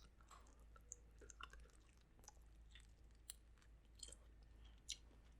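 Faint chewing: soft, scattered clicks and smacks of a mouth working on food.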